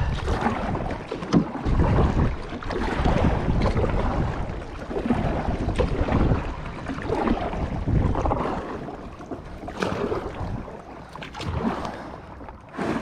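Gusty wind buffeting the microphone while a kayak is paddled across the lake, with water sounds and a few sharp knocks.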